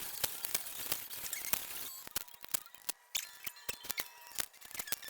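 Merchandise packaging being handled and opened: irregular sharp clicks and crackles, with a rustling over the first two seconds.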